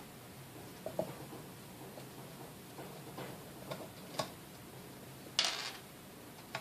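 Scattered clicks and taps of small metal parts and tools being handled while a stand mixer is taken apart, with a louder, half-second rattling scrape about five seconds in.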